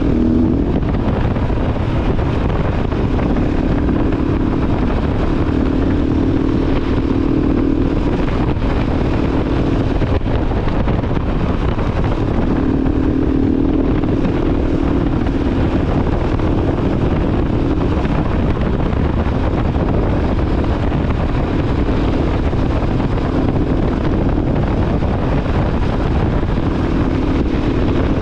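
KTM 690 Enduro R's single-cylinder engine running at a steady road speed, its note coming and going every few seconds under heavy wind rush on the microphone.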